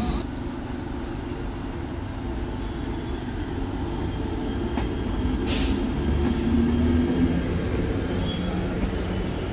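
Train running on the tracks with a steady low rumble that grows a little louder partway through, and a brief hiss about five and a half seconds in.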